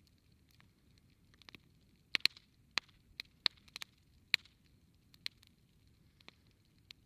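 Wood campfire crackling: scattered, irregular sharp pops and snaps, with a run of louder ones in the middle.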